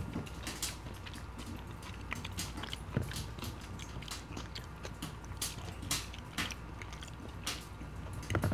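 Close-miked chewing of poutine (fries, cheese curds and gravy), with wet mouth sounds. Scattered sharp clicks run through it, some from a metal fork picking in a ceramic dish, with a cluster near the end.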